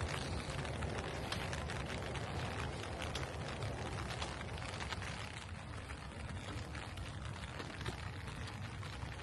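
Steady rain falling, with many small drop ticks over a continuous hiss and a low rumble underneath.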